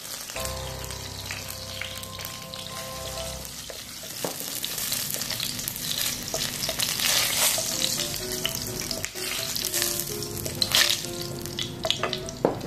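Whole shallots and garlic cloves frying in hot oil in a wok, a steady sizzle that swells in the middle, with a wooden spoon stirring and a few sharp knocks of the spoon against the pan.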